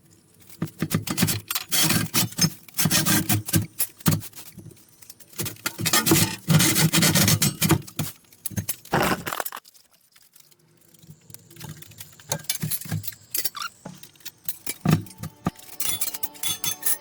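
Steel pieces clinking, rattling and scraping as they are handled and shifted on a steel workbench, in bursts, with a short lull about two thirds of the way through.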